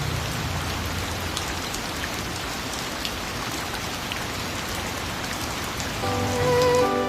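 Steady rain falling, a continuous hiss with scattered drop ticks. About six seconds in, instrumental music with sustained notes comes in over it.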